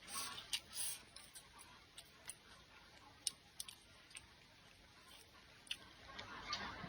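Quiet eating sounds: scattered small clicks and ticks of chewing and utensils, with two short rustling bursts near the start and busier noise near the end.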